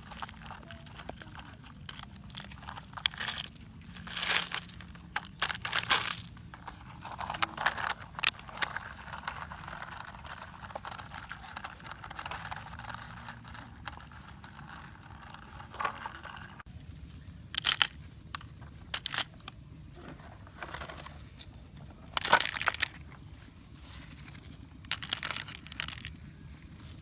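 Gravel and toy trucks being handled: irregular crunching, scraping and clicking of small stones, with a longer stretch of steady gritty scraping in the middle.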